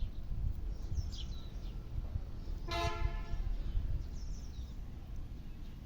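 A single short horn toot, about half a second long, about three seconds in, over a steady low rumble with a few faint high chirps.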